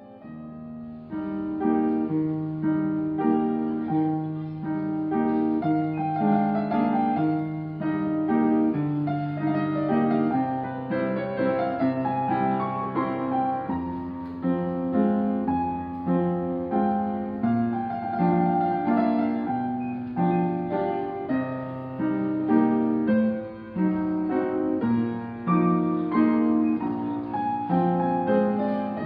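Background piano music: a gentle melody over steady chords, starting about a second in.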